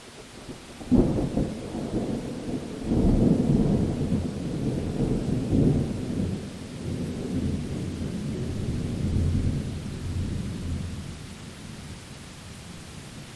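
A thunderclap over steady rain: a sharp crack about a second in, a second louder peal near three seconds, then a deep rolling rumble that fades away over the next several seconds.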